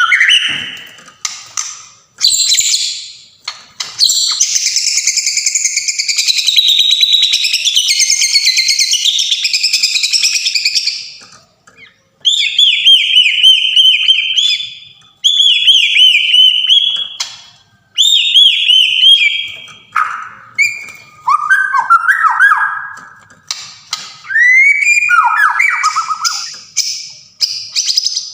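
White-rumped shama (Sumatran murai batu) singing: a long run of rapid, varied notes, then a series of loud whistled phrases with short pauses between them, some sliding down in pitch near the end.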